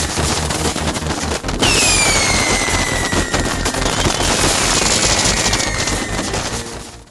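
Fireworks crackling densely, with whistles falling in pitch about one and a half seconds in and again about four seconds in, over a steady low beat. It all fades out near the end.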